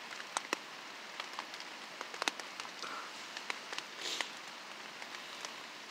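Rain falling on a tarp overhead: a steady hiss with individual drops ticking sharply and irregularly on the plastic.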